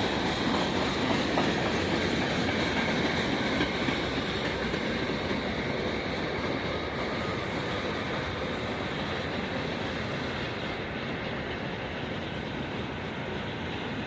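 A train passing on the tracks, its wheels running on the rails in a steady rumble that grows slowly quieter as it moves away.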